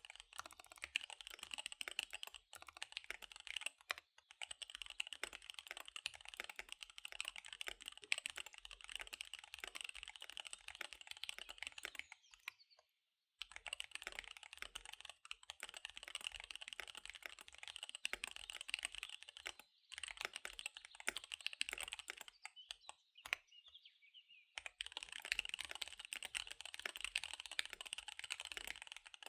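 Fast typing on a KBD75 V3 mechanical keyboard with SP-Star Dark Magic Girl tactile switches and DSA keycaps: dense runs of key clacks, broken by brief pauses about 13 seconds in and again around 23 seconds in.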